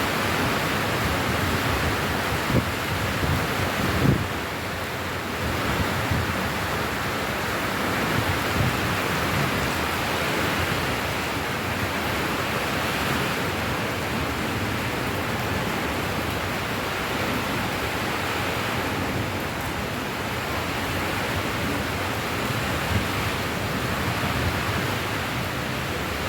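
Steady rain falling, an even hiss with a few louder taps of drops now and then.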